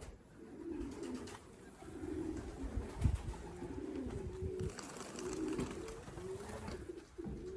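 Racing pigeons cooing: low, rolling coos repeated over and over, with one soft knock about three seconds in.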